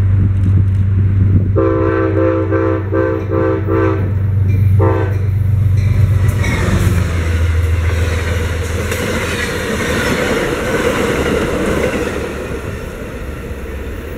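Amtrak passenger train sounding its multi-chime horn in a quick series of short blasts as it approaches, then one more short blast. Its cars then pass at speed with a rushing sound of wheels on rail that fades near the end.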